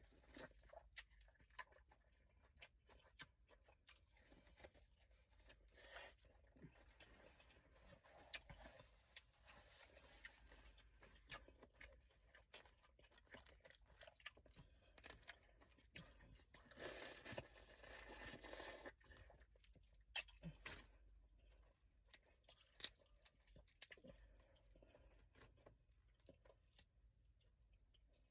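Crawfish shells being cracked and peeled, with chewing: a scatter of small cracks and crunches, and a few longer crackling, tearing stretches, the longest about two-thirds of the way through.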